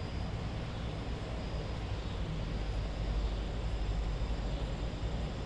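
Steady outdoor background noise: a low rumble with an even hiss above it, with no distinct events.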